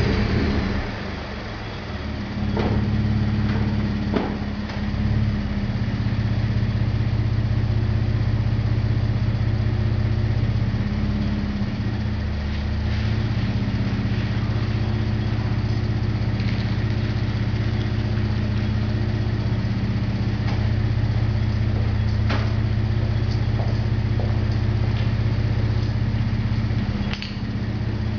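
2013 Ford F-150's exhaust through a Borla cat-back system with touring mufflers. The engine drops back from a rev in the first second or two, then idles steadily with a low, even exhaust note.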